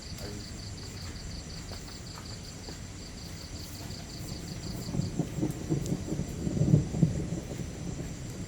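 Thunder rumbling, swelling about five seconds in and fading out. Before it, insects chirp in a steady pulsing rhythm.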